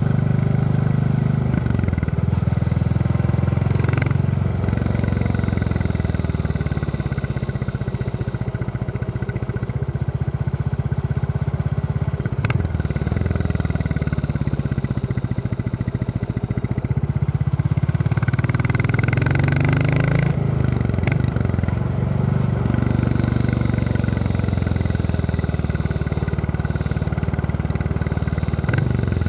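Royal Enfield Classic 350's single-cylinder four-stroke engine thumping under way while riding, its note dipping and rising several times, with a few brief clicks.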